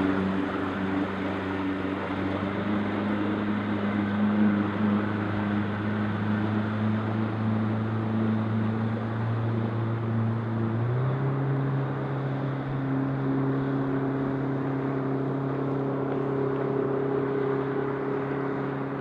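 Jet boat engine running steadily under way across a lake, with wind and water noise. About eleven seconds in, the engine note steps up to a higher pitch and holds there.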